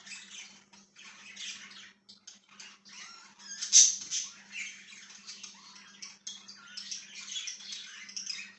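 Budgies (budgerigars) chattering and chirping continuously, several birds at once, with one loud squawk just under four seconds in. A faint steady low hum runs underneath.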